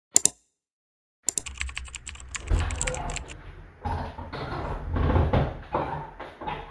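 Two sharp clicks, then a pause, then a run of quick clicks and taps that turns into irregular knocks and handling thumps.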